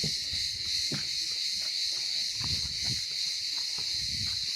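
A steady, high-pitched insect chorus, with soft footstep thuds underneath.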